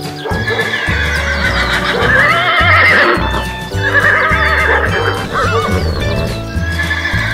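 A horse whinnying, two quavering calls about two and four seconds in, laid over background music with a steady bass line.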